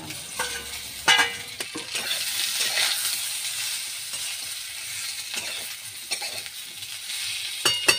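Fried potato, bitter gourd and onion pieces tipped into a kadai of hot mustard oil, sizzling steadily as they are stirred with a metal spatula. The spatula clanks sharply against the metal about a second in and again near the end.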